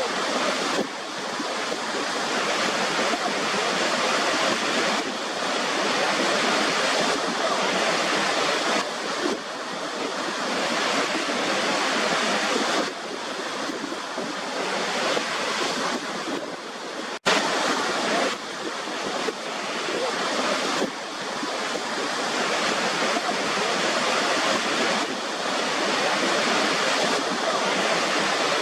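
Waterfall: water rushing and pouring steadily, swelling and easing slightly, with a momentary break about two-thirds of the way through.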